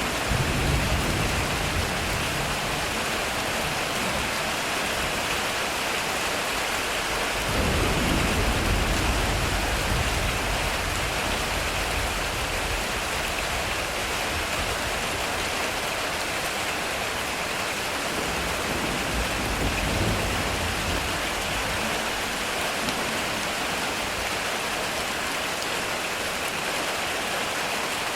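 Heavy rain falling steadily on a metal roof, with low thunder rumbling: a rumble near the start, a stronger one from about eight to ten seconds in, and a fainter one around twenty seconds in.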